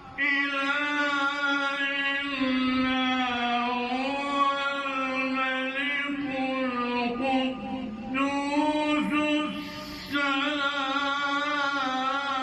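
A man reciting the Quran in melodic tajwid style, holding long ornamented notes that waver in pitch, with short pauses for breath about eight and ten seconds in.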